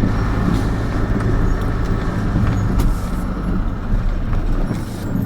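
Camper van engine running with tyre and road noise, heard from inside the cab while driving along a rough, narrow lane. The deep engine hum drops off near the end.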